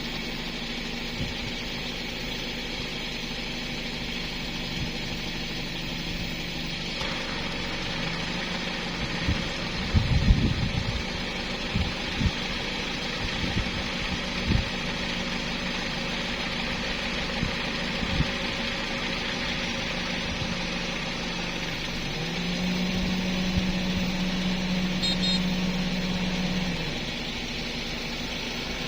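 A motor running steadily, with a cluster of knocks and thumps about ten to fifteen seconds in.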